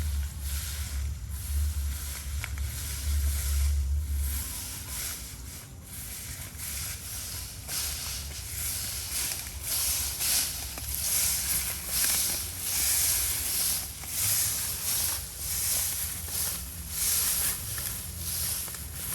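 Repeated crunching swishes of dry rice stalks, the rhythm of cutting by hand with a sickle, about one stroke a second and louder in the second half. A low hum runs under the first few seconds.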